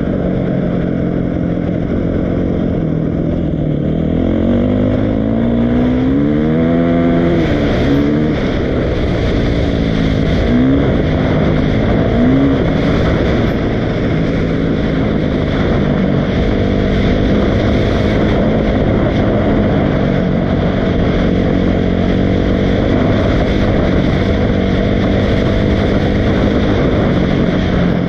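Dirt bike engine running, revving up with a rising pitch about five seconds in, then two quick throttle blips and a steady run.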